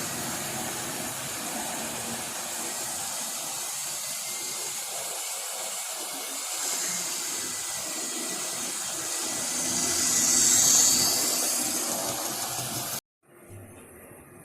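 Model railway trains running on the layout: the steady whirr of the locomotives' electric motors and the rattle of wheels and wagons on the track, louder about ten seconds in as a train passes close. It cuts off abruptly near the end.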